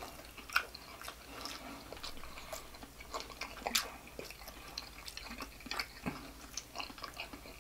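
Close-up wet chewing of sausage: small, scattered mouth clicks and smacks, a few a second.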